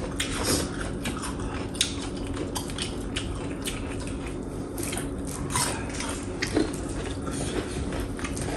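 A person chewing and biting food, with irregular small clicks scattered through.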